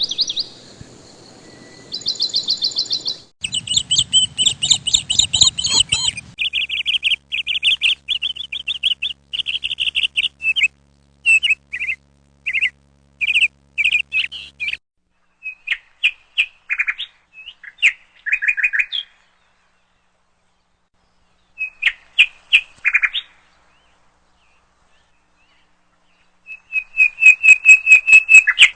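Rapid runs of short, high-pitched animal chirps, like trills of calls in quick succession. They break off twice for a few seconds, then come back as a fast, loud trill near the end.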